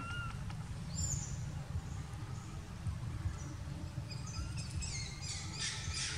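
Birds chirping in short, high calls over a low steady rumble of outdoor noise. The chirps are few at first and come thick and fast in the last second and a half.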